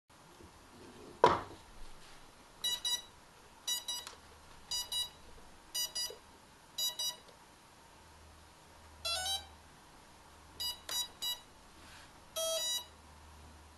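A sharp click, then the electronic speed controllers of a quadcopter beeping through its motors. Short double beeps come about once a second, then a quick rising run of tones, a triple beep and a longer final beep, as the repaired quad powers up and arms.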